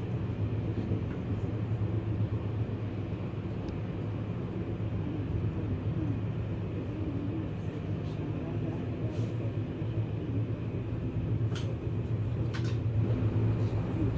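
Inside a MÁV InterCity passenger coach at speed: the steady low rumble of the wheels running on the rails, with a few sharp clicks near the end.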